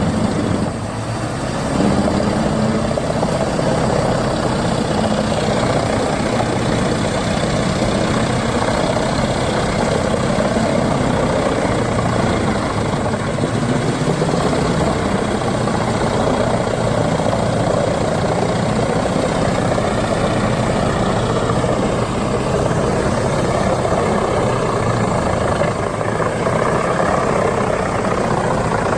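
Large wood chipper running steadily under load, its engine and feed mechanism making a continuous heavy mechanical din, briefly dipping about a second in.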